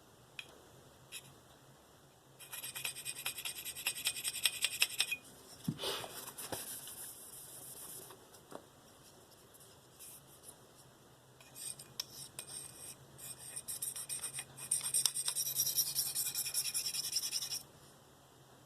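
S30V steel knife blade scraped in runs of quick sharpening strokes across a Spyderco 302M medium ceramic bench stone, with a hissy, rasping sound. The runs come about two seconds in and again from about eleven seconds in until shortly before the end, with pauses between.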